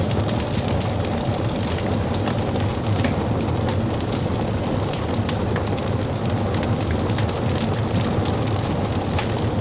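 Wood fire crackling: many small, sharp pops scattered over a steady rushing noise.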